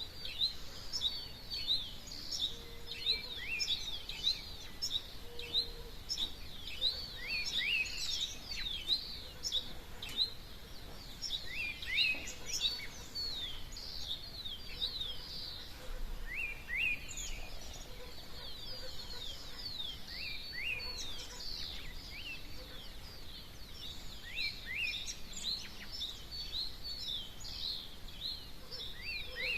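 Dawn chorus of many small songbirds: quick, high chirps and short song phrases overlapping continuously.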